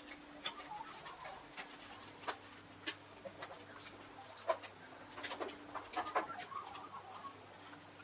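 Birds at a feeding spot: irregular sharp taps, most of them about five to six and a half seconds in, with a few short, soft calls.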